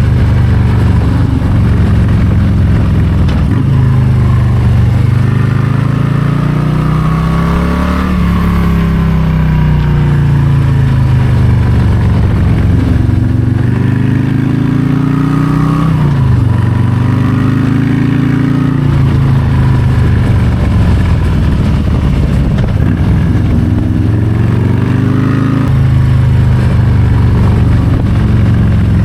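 Harley-Davidson Low Rider ST's Milwaukee-Eight 117 V-twin engine running loud under way, its pitch climbing and falling several times as the throttle is opened and closed through the bends.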